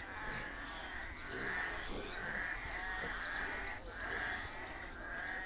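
Piglets squealing over and over, high harsh cries about one a second.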